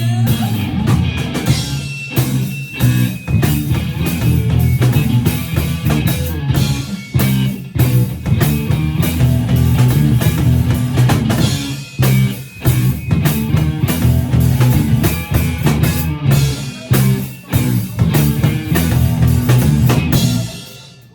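Live rock band playing an instrumental passage on drum kit, electric guitar and bass, ending abruptly near the end.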